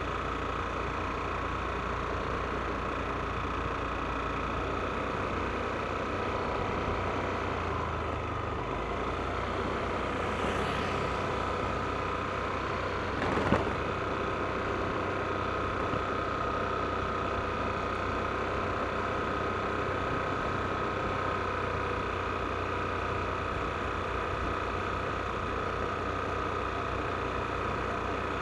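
Yamaha NMAX scooter's single-cylinder engine running steadily under way, with road noise. One short sharp knock about halfway through stands out as the loudest moment.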